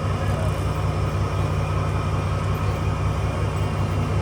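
Fishing boat's engine running steadily under way, a low drone with a fast even pulse.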